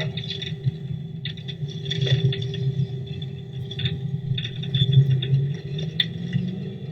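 Steady drone of a police helicopter, with a held whine over it and scratchy crackling throughout.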